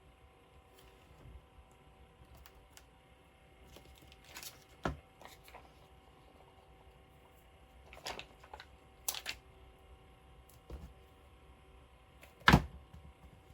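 Scattered light taps, clicks and paper rustles from hands placing stickers and paper pieces on a scrapbook layout, with one sharp click near the end the loudest.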